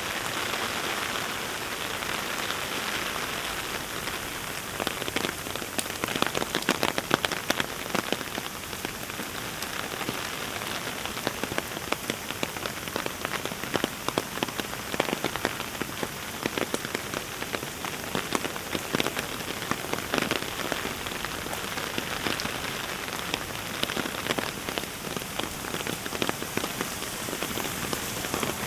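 Heavy rain falling steadily, with a dense patter of close, sharp drop hits that grows busier about five seconds in.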